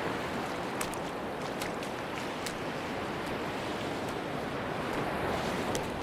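Sea surf washing steadily on a beach, with a few faint, sharp clicks now and then.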